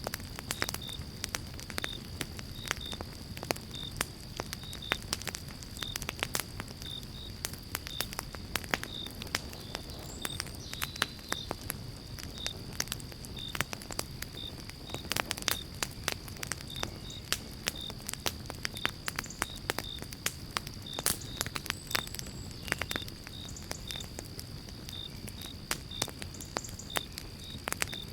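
Pine-log campfire burning, with frequent sharp, irregular crackles and pops over a low steady rumble of the flames. A faint high chirp repeats at short, even intervals throughout.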